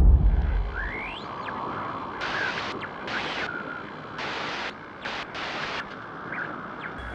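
A rushing, hissing noise that fades down from a loud boom, with several short bursts of brighter hiss and a few faint rising squeaks; it cuts off abruptly near the end.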